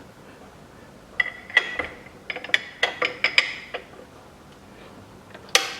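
Metallic clicks and clinks from hands working the spring-loaded drive-belt tensioner and its locking pin on a Peugeot 408 1.6 engine, a quick run of them with a short metallic ring, then one sharp click near the end.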